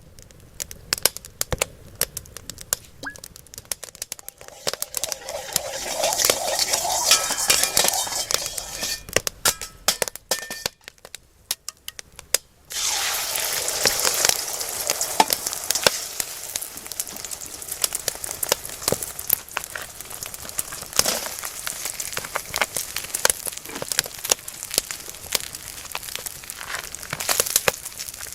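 Food frying and sizzling in hot oil over a campfire, with many sharp crackles. The sizzle swells, breaks off briefly after about ten seconds, then returns suddenly and strongly and runs on.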